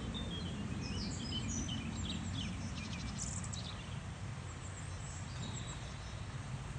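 Small songbirds chirping and calling around a garden feeder, with short high twitters that are busiest in the first few seconds and thin out after. Under them runs a steady low background rumble.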